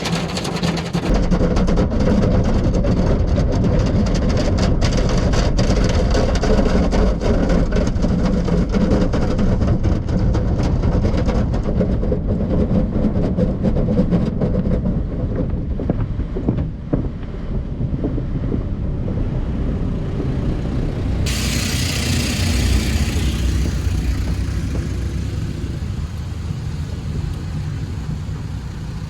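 Conveyor tunnel car wash heard from inside the car: cloth wash equipment and water working over the body with a deep, steady rumble. About twenty seconds in, a sudden hiss joins for several seconds.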